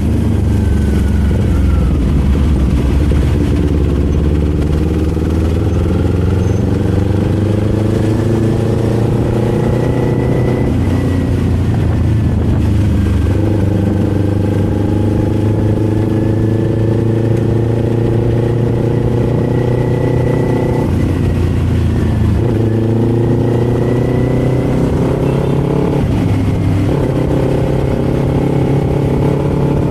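Kawasaki Z400's parallel-twin engine riding under way, its revs rising steadily in each gear and dropping back sharply at each upshift, several times over.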